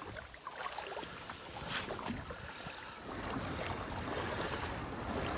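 Steady rushing wash of river water, with a few faint clicks; the level rises slightly about halfway through.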